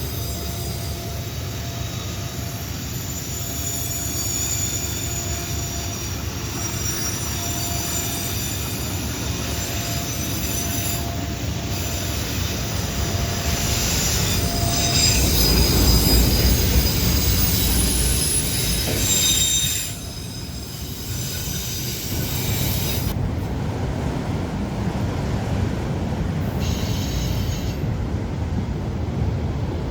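A train rolling past with its wheels squealing, thin high squeals coming and going over a steady rumble of cars on the rails. It is loudest about halfway through, then drops off suddenly a few seconds later.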